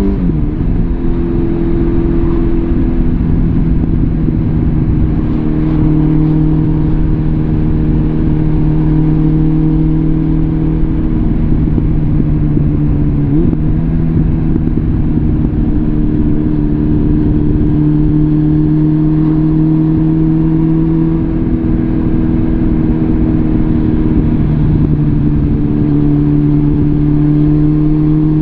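Suzuki GSF650 Bandit's inline-four engine through a full Arrow exhaust system, running under way at steady cruising revs. The revs dip briefly and recover about halfway through, and creep up slightly near the end.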